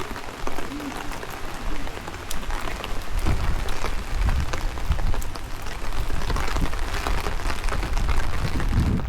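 Heavy rain falling in a steady hiss, with single drops ticking close by. From about three seconds in, a strong, uneven low rumble joins it.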